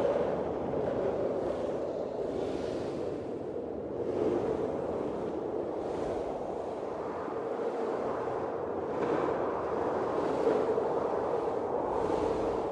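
Blizzard wind blowing steadily, swelling and easing in gusts every few seconds over a low, hollow rushing tone.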